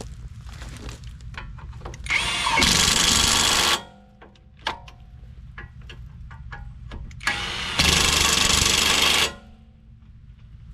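Impact wrench run in two bursts of about one and a half to two seconds, a few seconds apart, working wheel lug nuts. Light metal clicks and knocks of handling come between the bursts.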